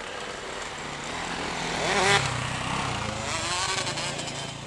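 Motocross motorcycle engines running and revving, the pitch rising and falling, loudest about two seconds in.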